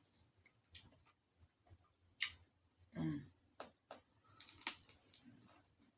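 Close-up eating sounds of someone chewing chicken wings: scattered wet smacks and clicks, with a hummed "mm" of approval about three seconds in.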